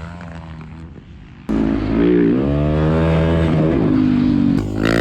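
Dirt bike engine running at the track. It is faint at first, then comes in suddenly and loud about a second and a half in, revving with the pitch climbing and holding before it eases off near the end.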